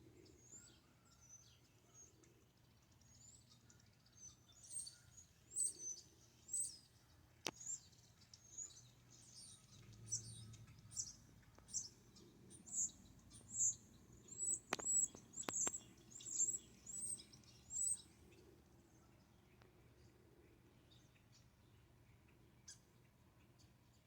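Small birds chirping: a quick run of short, high chirps, many dropping in pitch, busiest through the middle and dying away about three quarters of the way in. A few sharp clicks fall among them.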